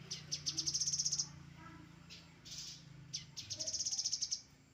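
Grey-headed canary-flycatcher singing: two quick, high trills of about ten notes a second, one at the start and one near the end, with a short phrase between them.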